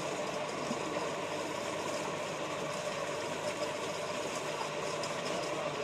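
Motorised paste machine running steadily as it milling cleaned peppers into paste, an even, continuous mechanical running noise.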